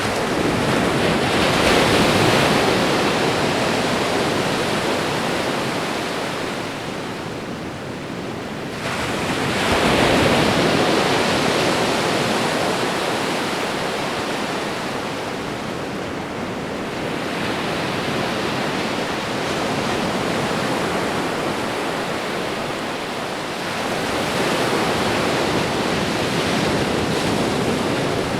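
Ocean waves breaking and washing on a shore, a continuous surf that swells and ebbs with each wave, cresting about every eight seconds.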